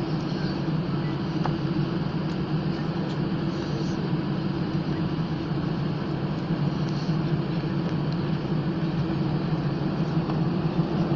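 Steady low mechanical drone with a faint hiss above it and a few faint clicks.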